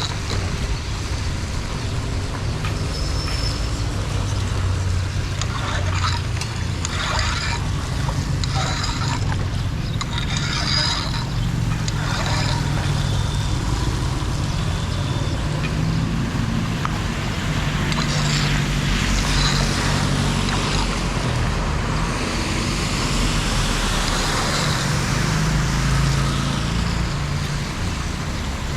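Floodwater rushing through a cleared street drain: a steady low rumble with short splashy bursts here and there.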